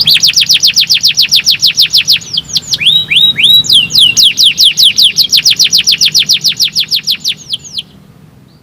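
Canary singing a fast rolling trill of quickly repeated, down-slurred high whistles. About three seconds in it breaks into a few slower, lower sweeping notes, then trills fast again and stops shortly before the end.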